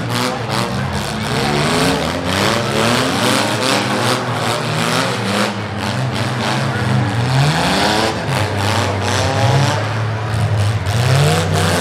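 Several six-cylinder demolition derby car engines running at once, revving up and down over and over as the cars push and ram each other.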